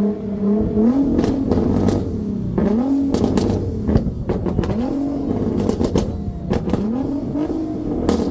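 Performance car engine revved in repeated blips, about one every two seconds, each rising and falling in pitch, with sharp exhaust pops and crackles between the revs.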